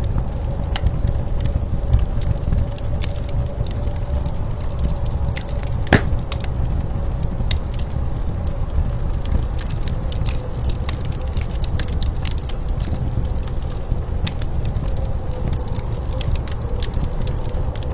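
Wood fire crackling with scattered pops over a steady low rumble of blizzard wind and a faint steady whistle; one sharp pop about six seconds in.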